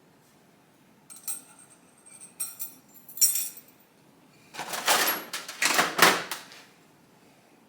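Small metal parts or tools clinking a few times, then about two seconds of louder scraping or rustling as parts are handled during motorcycle assembly work.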